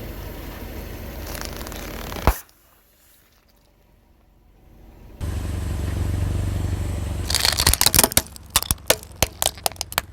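Car running with a low rumble while its tyre rolls over brittle objects, crushing them in a quick run of sharp cracks and snaps from about seven seconds in. Earlier there is a sharp click, then a few seconds of near quiet.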